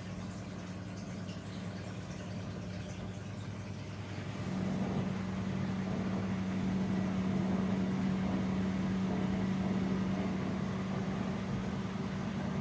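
Zanussi washing machine running at the end of its last rinse cycle, just before the final spin: a steady motor hum that grows louder about four and a half seconds in.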